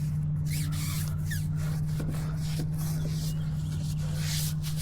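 Pressure washer running with a steady low hum, its spray hissing unevenly and growing stronger near the end.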